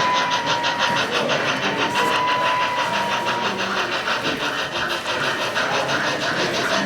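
Sound system of an On30 model steam locomotive, chuffing in a fast even beat of about four to five strokes a second. Two long whistle tones sound over it, the first in the opening second and the second from about two seconds in.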